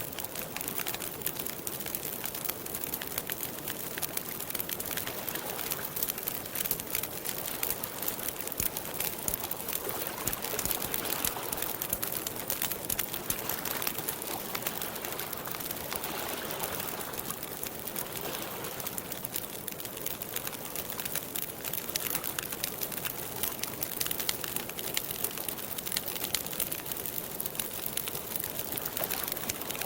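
Wood campfire crackling steadily, with many small sharp pops and snaps over a soft continuous hiss.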